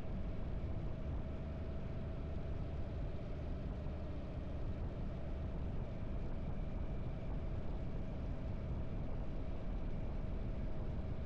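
Harley-Davidson air-cooled V-twin motorcycle engine running at a steady cruising speed, with no change in revs.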